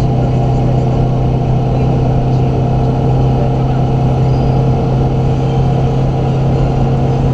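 Range Rover Classic's 2.5-litre VM four-cylinder turbodiesel running under way at a steady, unchanging pitch.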